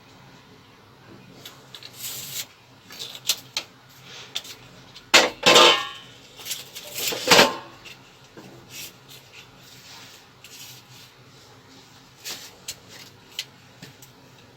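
Hard objects, such as metal tools or fittings, being handled: scattered clinks and knocks, with two louder clatters near the middle, the first ringing briefly.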